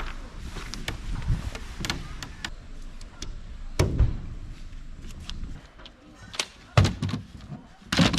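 Scattered knocks, thuds and sharp clicks of camping gear being handled and set up. The heaviest thuds come about four seconds in, near seven seconds and just before the end.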